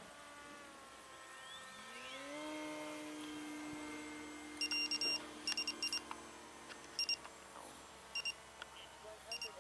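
Electric motor whine of an RC aircraft, rising in pitch and then holding steady. About halfway through come short electronic beeps in small groups, of the kind an RC transmitter or telemetry unit gives.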